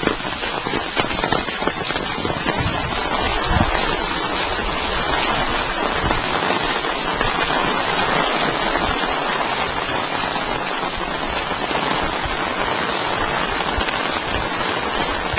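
Heavy rain falling steadily, a dense even hiss of drops on the ground and surfaces.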